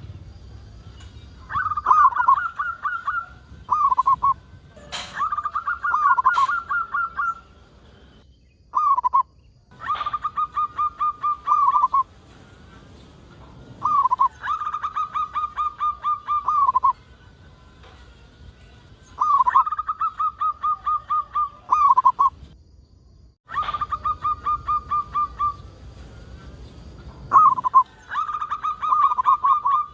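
Zebra dove (perkutut) singing: a drawn-out phrase of quick rolling pulsed coos at a steady pitch, repeated every few seconds, about seven times, with a single short coo between some phrases.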